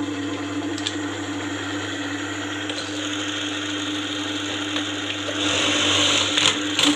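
Juki industrial buttonhole machine running with a steady motor hum. A brighter hiss swells near the end, with a few sharp clicks.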